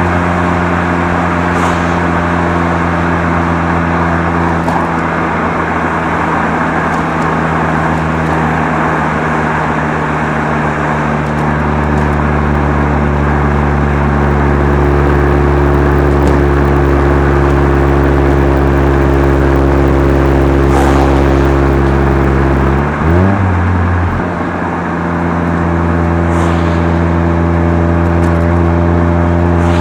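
Mazda RX-7 FC3S twin-rotor 13B rotary engine running at a steady speed through a Night Sports Regal Sports aftermarket muffler, a loud, even exhaust note. About three-quarters of the way through the note briefly dips and rises again before settling back.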